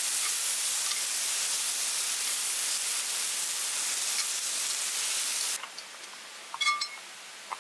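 Food sizzling in a hot pan or on a grill, a steady loud hiss that cuts off abruptly about three-quarters of the way in. A short light metallic clink follows near the end.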